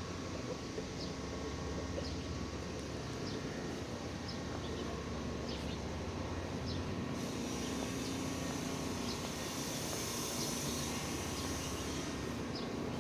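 Steady outdoor background noise with a low hum and short, faint high chirps about once a second. A broad hiss rises about halfway through and fades near the end.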